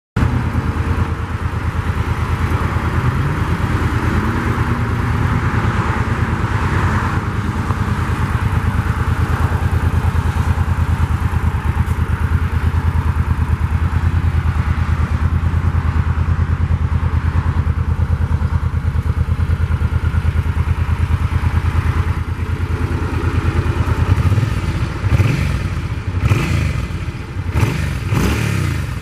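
2011 Suzuki Boulevard C50T's 805 cc V-twin running through its stock exhaust. It idles steadily, then is revved in a few quick blips over the last five seconds.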